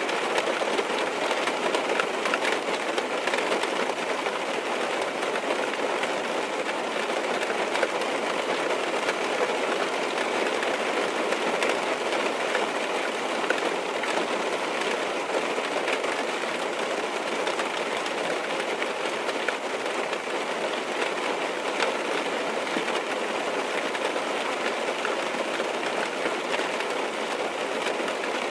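Steady rain on a car's roof and windows, heard from inside the car: an even patter with scattered small drop ticks.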